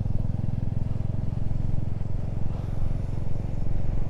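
Motorcycle engine running steadily on the move, a low even rumble.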